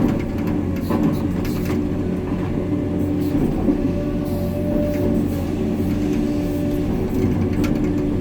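Heavy-equipment diesel engine running steadily with a constant low hum, with a few light knocks in the first two seconds and a brief higher whine about four seconds in.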